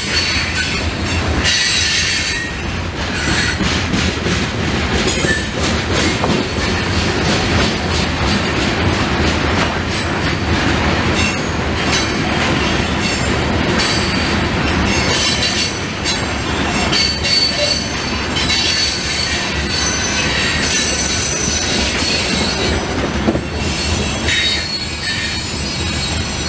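Loaded grain hopper cars of a freight train rolling past at close range: a steady rumble with clicking over the rail joints and high wheel squeal that comes and goes.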